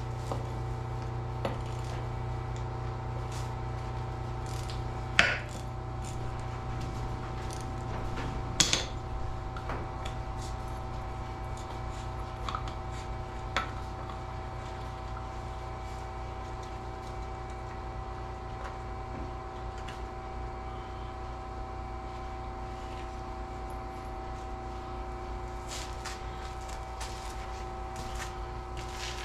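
Steady low hum of a shop's background machinery, with a few sharp metallic clicks and taps of parts and tools being handled, the loudest about five, nine and thirteen seconds in.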